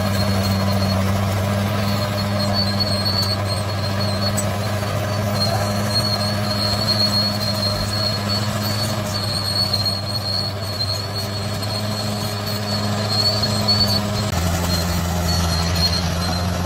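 Bulldozer's diesel engine running steadily under load, with a high squeal coming and going over it; about fourteen seconds in the engine note drops lower.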